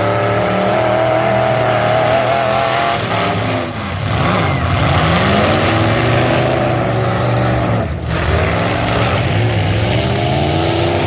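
Several full-size truck engines revving hard at once, their pitches rising and falling independently, with brief lulls about four and eight seconds in.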